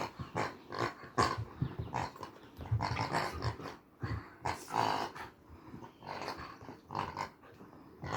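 A puppy growling in a rapid string of short bursts.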